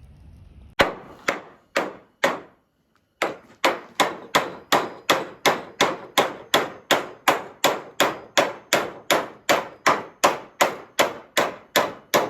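A hammer driving a large metal spike into a barn timber. Four strikes come first, then after a short pause a steady run of about two and a half hits a second, each with a brief metallic ring.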